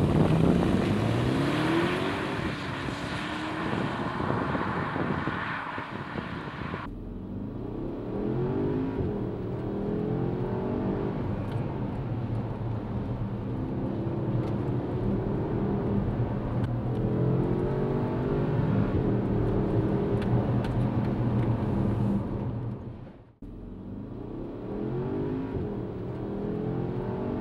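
Porsche Cayenne Turbo's twin-turbocharged V8 accelerating hard from a launch, its pitch rising through the first gears over a loud rush of tyre and wind noise. Then, heard from inside the cabin, the engine rises in pitch again and again as it pulls up through the gears. There is a brief break about 23 seconds in.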